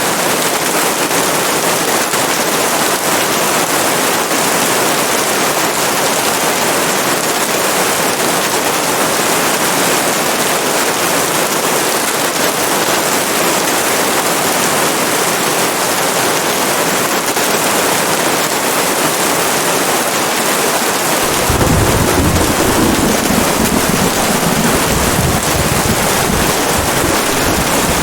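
Steady rain hiss. About three quarters of the way through, a deep rumble of thunder sets in suddenly and keeps rolling.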